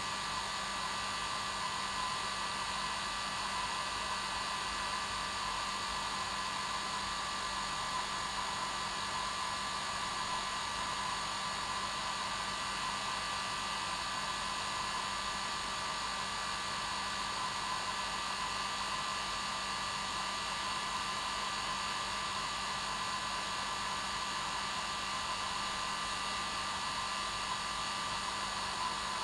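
Hair dryer running steadily: a constant rushing hiss of air with a steady motor whine on top, unchanging throughout.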